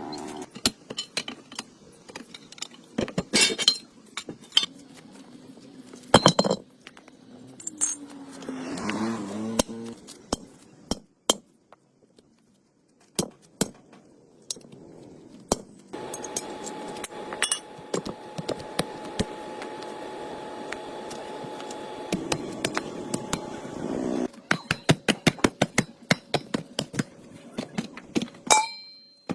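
Irregular metallic clinks and taps, as of tools and metal parts being handled, with a steady humming tone running for several seconds in the middle.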